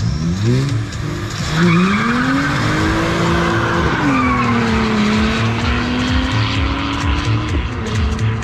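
A car accelerating hard from a launch. Its engine pitch climbs quickly, climbs again and drops sharply at a gear change about four seconds in, then runs steadier as it pulls away.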